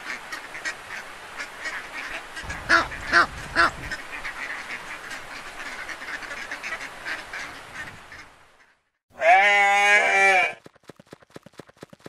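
Mallard duck quacking over a steady chatter of quacks, with a few louder quacks about three seconds in. Near the end it stops briefly, then comes one loud, long, wavering animal call, followed by a quick, even clip-clop of hooves.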